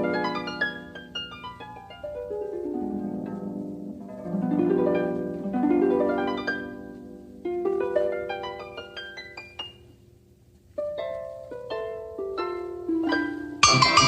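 Instrumental music: sweeping harp glissandos and plucked runs, thinning to a dip about ten seconds in, then a short rising line of single plucked notes. Near the end, louder, bright, rhythmic percussive music comes in abruptly.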